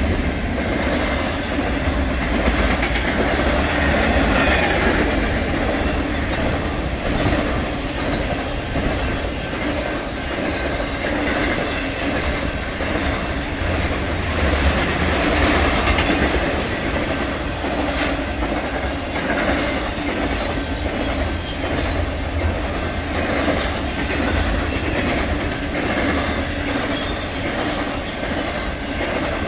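Intermodal freight cars, double-stack container cars and trailer cars, rolling steadily past at close range: continuous noise of steel wheels on the rails with a clatter over the rail joints.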